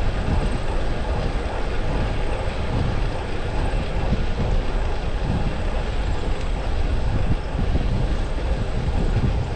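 Steady rushing noise of a road bike being ridden, mostly wind on the microphone with tyre and road noise.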